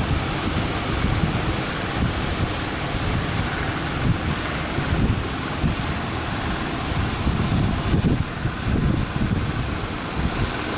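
Strong wind buffeting the microphone in uneven gusts over the steady rush of surf.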